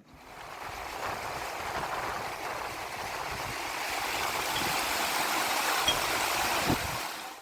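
Running water, a steady rushing like a stream, swelling in over the first second and cutting off abruptly at the end.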